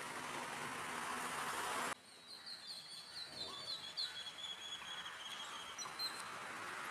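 A steady rushing hiss that cuts off abruptly about two seconds in, followed by a small bird singing a quick run of high chirps that thins out over the next four seconds.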